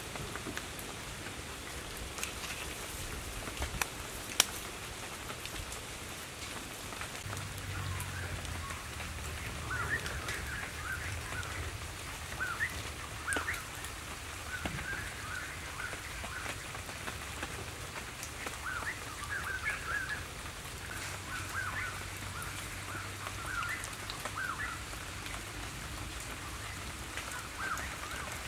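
Steady hiss like rain falling on leaves, with birds chirping in short clusters through most of the second two-thirds and a faint low hum underneath. A sharp tap sounds about four seconds in.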